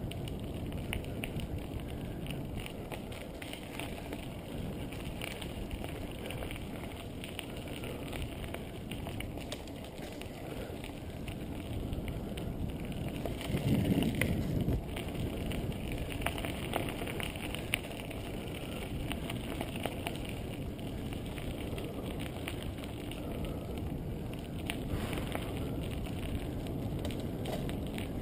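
Bicycle ride heard through a bike-mounted action camera: a steady low rumble of wind and tyres on the road, with many small rattles and clicks, louder for about a second around the middle.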